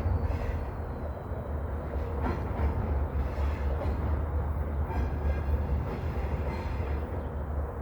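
A train running past on the tracks: a steady, heavy rumble of wheels and cars on the rails.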